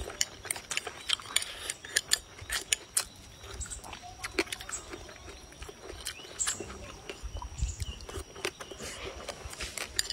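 Close-miked eating sounds: chewing, with wet lip smacks and mouth clicks coming several times a second, over a faint steady high tone.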